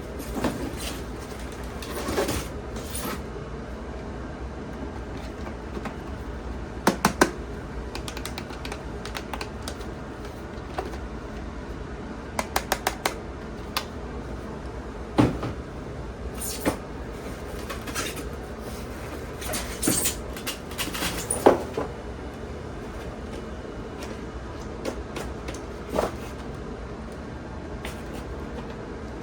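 Scattered clicks, taps and knocks of hard objects being handled, some coming in quick runs of three or four clicks, over a steady low hum.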